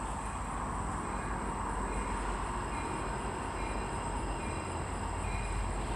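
EMD SD70MAC diesel-electric locomotive with its 16-cylinder two-stroke diesel running, leading a second locomotive and loaded tank cars, approaching as a steady low rumble with rail noise.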